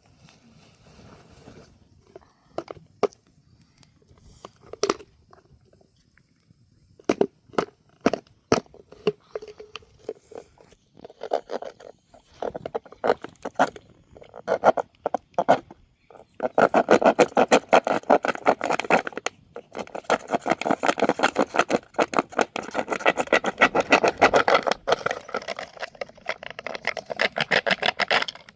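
Scattered sharp taps and clicks, then from about sixteen seconds in a dense, rapid pattering of many small impacts.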